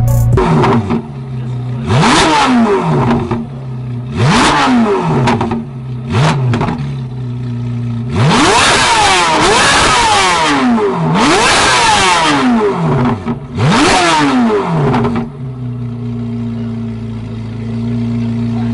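A C8 Corvette Z06's flat-plane-crank V8 being revved from idle: three quick blips, then three longer, higher revs, each dropping back to a steady idle, which settles in near the end.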